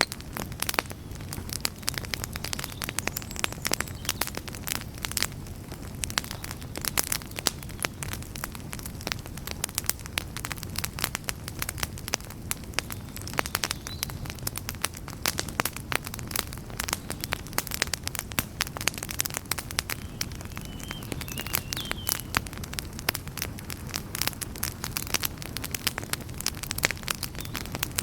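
Wood campfire crackling steadily, with many sharp, irregular pops and snaps over a low, even rumble of the flames.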